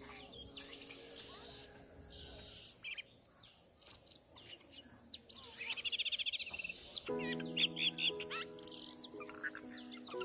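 Bird-lure playback of many high chirping and whistling bird calls, with a fast trill about six seconds in. From about seven seconds a layer of steady low, sustained tones joins the calls.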